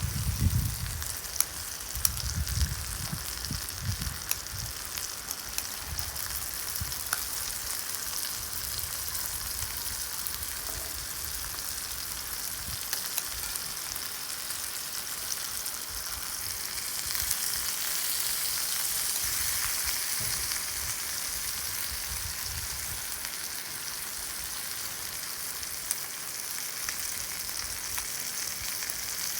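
Beef sizzling in a cast iron pan over an oak-wood fire: a steady hiss with fine crackles, swelling a little in the middle. A few low rumbles come in the first seconds.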